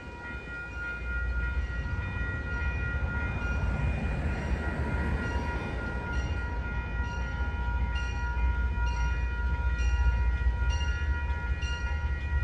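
MBTA diesel commuter train pulling out: a low engine rumble builds about a second in, with a steady high-pitched whine over it. From about halfway a regular tick comes in, about twice a second.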